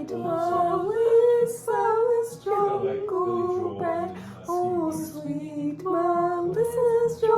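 A woman singing a melody, holding a string of notes that step up and down in pitch.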